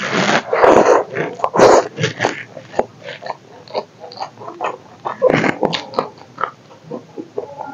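A person eating rice and chicken curry by hand close to the microphone: loud, wet chewing and lip-smacking in irregular bursts, loudest over the first two seconds as a handful goes into the mouth, with a green chilli bitten near the end.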